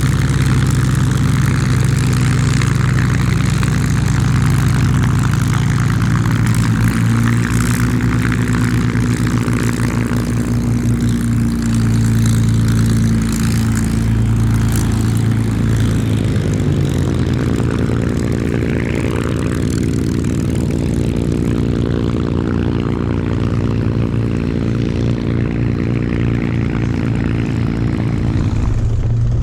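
Merlin V-12 piston engines of a P-51 Mustang and a Spitfire running steadily, their pitch shifting a little now and then.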